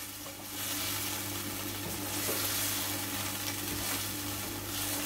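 Chicken and potato pieces sizzling in hot oil in a non-stick wok while being stirred and turned with a slotted spatula, a steady frying hiss.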